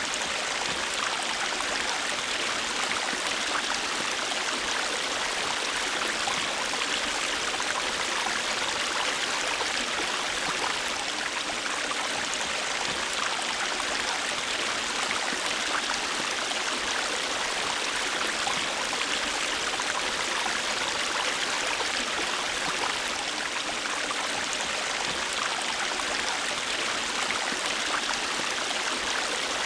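A river flowing steadily, its water rushing and splashing over rocks in an even, unbroken hiss.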